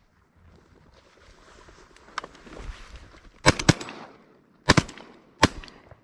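Shotgun shots fired at ducks: a rapid volley of about five sharp reports. Two come close together about three and a half seconds in, two more just under five seconds in, and a last one near the end.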